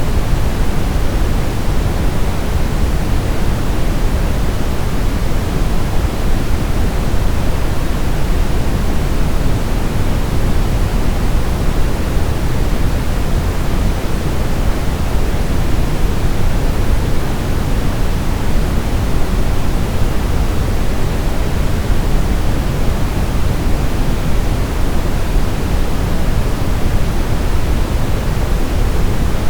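Steady brown noise: an even, unchanging rushing hiss weighted toward the low end, without rhythm or events.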